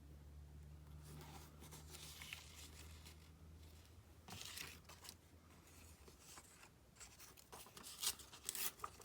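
Craft paper being handled: faint rustling and rubbing, then a run of short, sharper crinkles and taps near the end.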